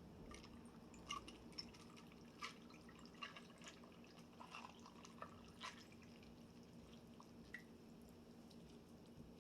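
Near silence: a low steady room hum with a scatter of faint, short clicks and ticks, most of them in the first seven seconds or so.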